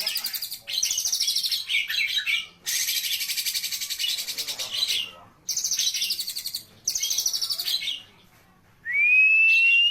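Oriental magpie-robin (kacer) singing: a series of fast chattering, trilling phrases broken by short pauses, then near the end one loud, clear whistle rising in pitch.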